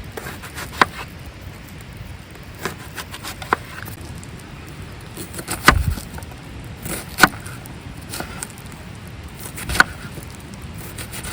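About six sharp knocks and clinks at irregular intervals a second or more apart. The loudest, with a deeper thump, comes about halfway through.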